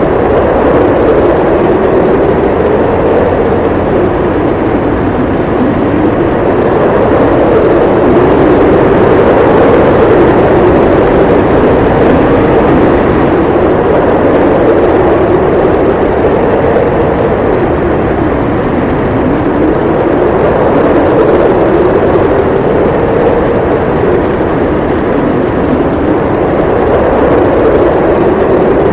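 Howling wind of a winter snowstorm: a steady, loud rush whose howl slowly rises and falls in pitch every few seconds.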